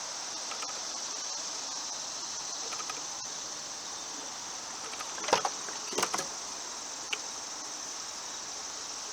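Steady high-pitched chirring of crickets, with a few sharp knocks about five and six seconds in.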